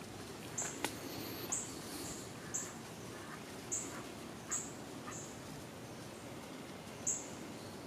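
A small bird's short, high-pitched chirps, repeated at irregular intervals over a faint woodland hush, with a few sharp light clicks and snaps in between.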